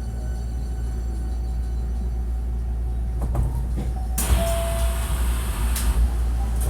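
Hankyu 1300 series electric train at a station stop: a low rumble with a few knocks, then about four seconds in a sudden loud hiss of air as the doors open, with a brief tone and a couple of clicks after it.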